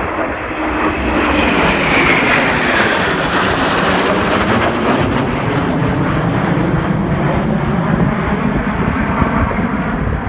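Four Eurofighter Typhoon jets, each with twin EJ200 turbofans, flying past in formation: a loud jet roar swells in at the start, a whine falls in pitch from about two seconds in as they pass, and the roar carries on steadily after.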